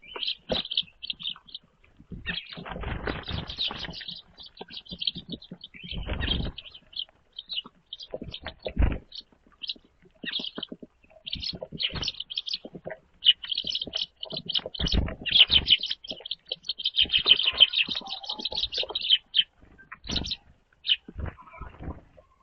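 Small birds at a feeder chirping in short high calls that thicken into dense chatter in the second half, with several bursts of wing flapping.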